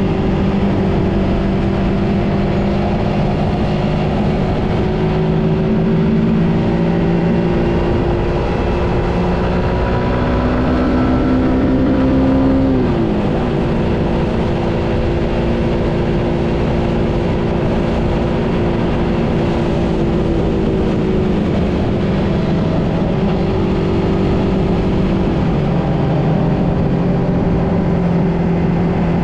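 Suzuki GSX-S150's single-cylinder four-stroke engine running as the motorcycle rides along. Its pitch climbs slowly, falls sharply once about halfway through, then holds fairly steady.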